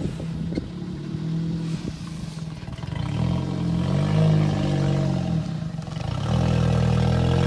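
Nissan Micra K11's small petrol engine running as the car creeps along the kerb to park. The revs rise and fall back twice, about three seconds in and again near the end.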